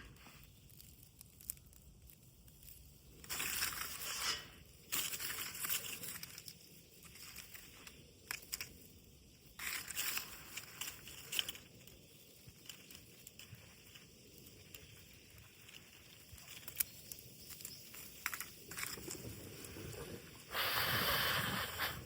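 Intermittent crunching and rustling of dry material being handled, in four or five rough bursts with scattered sharp clicks between them.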